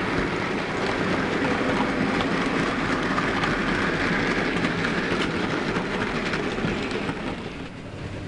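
OO gauge model diesel train running along the track, its wheels clicking over the rail joints, growing quieter about seven and a half seconds in as it moves away.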